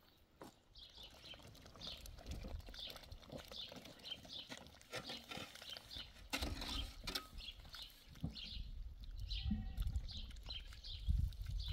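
Small birds chirping over and over in short high calls, with a low rumble underneath.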